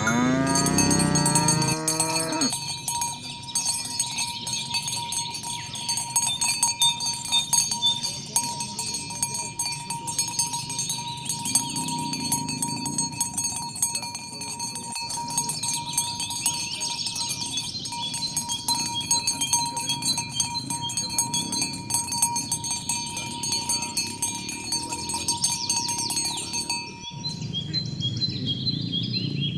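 A cow moos at the start, its call rising in pitch, and another moo begins near the end, over steady jingling of bells on the cattle.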